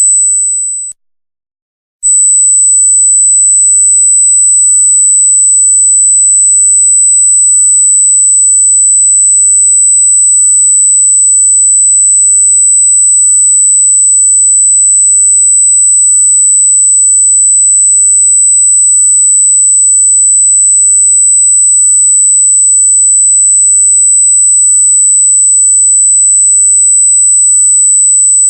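A loud, very high-pitched electronic tone, a single pure whine held at one pitch. It fades out near the start, drops out for about a second, then comes back abruptly and holds steady.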